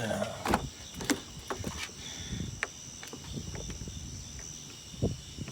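Scattered light knocks and clicks of someone handling a car's door and body, a few each second, over a steady high-pitched whine.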